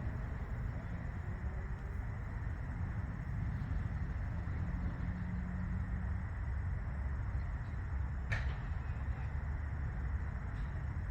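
Steady low rumble of outdoor background noise, with a single sharp knock about eight seconds in.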